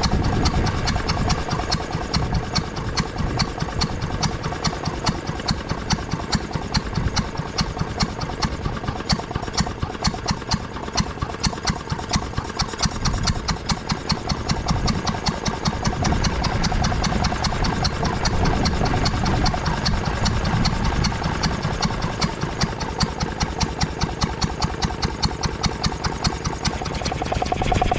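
Ruston & Hornsby 2PS petrol-engined air compressor running, a steady mechanical beat with regular sharp strokes, getting a little louder about halfway through.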